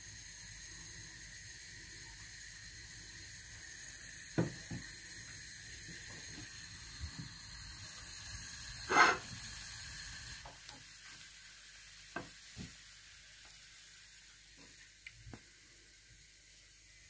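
Breaded chicken nugget sizzling in hot oil in a frying pan, with one brief louder sizzle about nine seconds in. A few soft taps and clicks from handling come before and after it.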